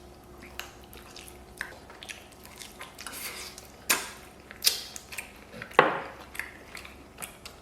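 Close-up eating sounds from a meal of braised pig trotters: scattered sharp clicks and clinks of tableware, loudest about four and six seconds in, with soft wet handling and chewing noises between them.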